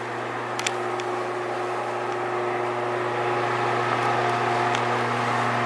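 A steady mechanical hum with a few fixed tones, growing slightly louder, with a faint click about half a second in.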